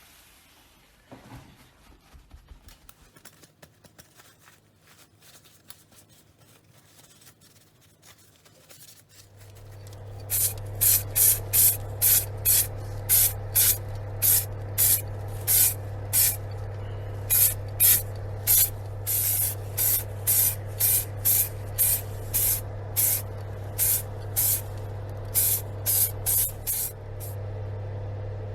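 Faint handling clicks, then a small air compressor starts humming about nine seconds in. An airbrush sprays paint in short repeated hissing bursts, about one or two a second, over the steady hum.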